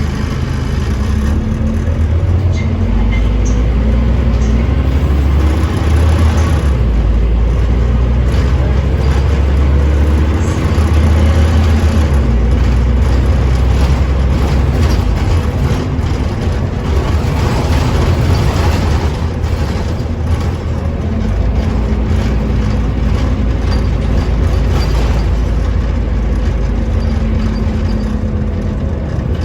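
Scania OmniCity double-decker bus running under way. Its low engine note shifts in steps several times as it pulls and changes gear.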